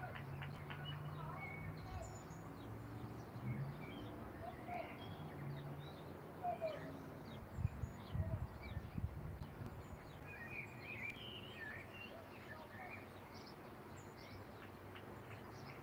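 Small birds chirping and calling on and off over a low steady outdoor hum, with a busier run of chirps in the second half. A few low thumps come about halfway through and are the loudest sounds.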